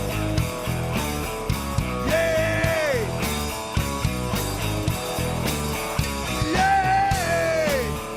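Live rock band playing loudly: electric guitar, bass and drums keeping a steady beat, with two long held high notes that each slide down at the end, one a couple of seconds in and one near the end.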